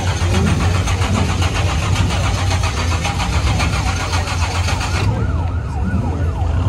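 Supercharged V8 in a blown VL Commodore street machine idling loudly with an even, pulsing beat. About five seconds in, a siren-like wail rising and falling joins it.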